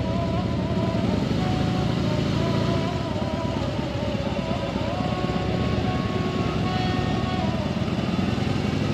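Motorcycle running on the move, a steady engine rumble mixed with wind noise, under background music carrying a melody.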